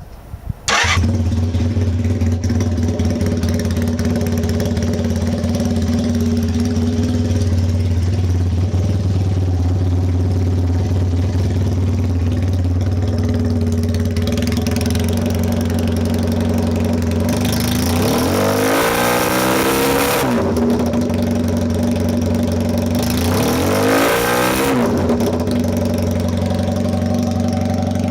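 Honda Hawk (CB400T/CB250T) parallel-twin motorcycle engine catching about a second in and idling steadily, with two throttle blips that rise and fall in pitch later on. It runs with no abnormal noise.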